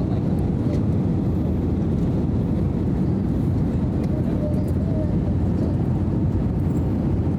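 Steady rumble of airliner cabin noise on the descent for landing: engine and airflow noise heard from inside the cabin.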